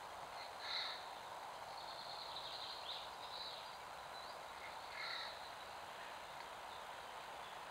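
Birds calling over a steady hiss: two short, louder calls about a second in and about five seconds in, with faint high chirping between them.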